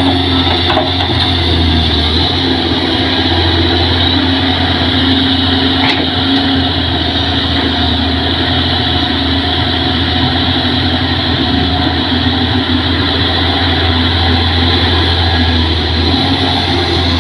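Diesel tractor engine running steadily with a constant low drone, as during plowing.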